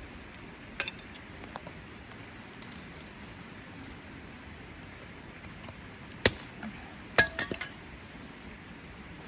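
A few sharp clinks of camp cookware or utensils being handled: a light one near the start, a louder single clink about six seconds in, and a short run of ringing clinks a second later.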